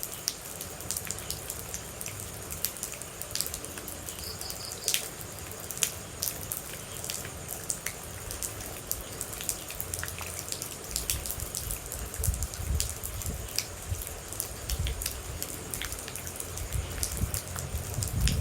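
Rain with water droplets dripping: a steady patter with many irregular sharp drips. A low rumble comes in about halfway through.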